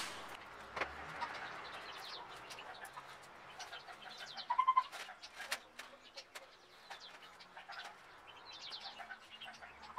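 Small birds chirping in the background, short falling chirps a few times. Over them come faint clicks and rustles of a paper kite being handled and its lines snipped with scissors, with a cluster of quick sharp clicks about halfway through.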